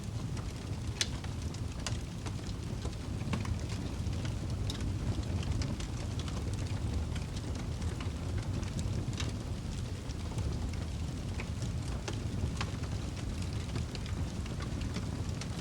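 Wood fire burning in a fireplace: a steady low rumble of the flames with frequent scattered crackles and pops.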